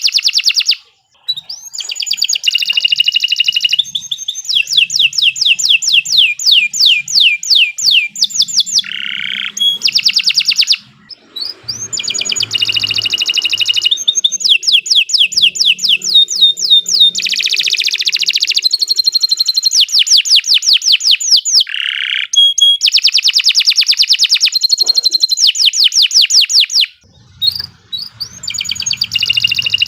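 Domestic canary singing long, loud phrases of fast repeated trill notes and sweeping whistles, with short breaks about a second in, about ten seconds in and near the end.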